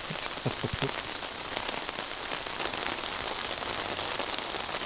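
Heavy rain drumming on an umbrella held over the microphone: a dense, steady patter with many small sharp drop hits.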